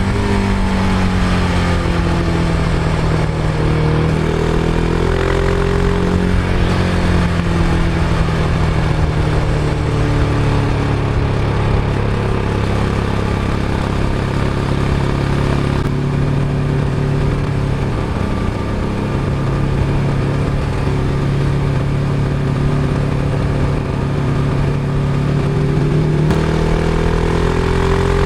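Husqvarna Vitpilen 701's single-cylinder engine through its stock exhaust, heard from on the bike while riding. The engine note holds fairly steady at cruising revs and rises near the end as the bike accelerates.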